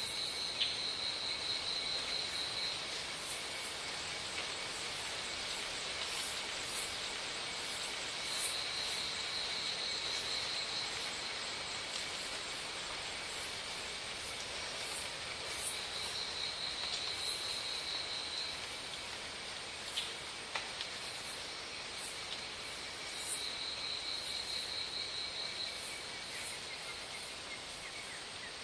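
Outdoor ambience with an insect trilling high in repeated bursts of about two and a half seconds, one every seven to eight seconds, over a steady hiss of background insect noise.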